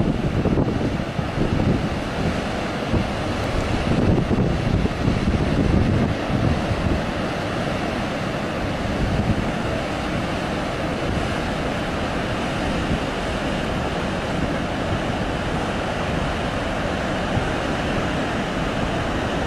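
Steady rush of a large volume of water released at Tarbela Dam, with wind buffeting the microphone in the first few seconds.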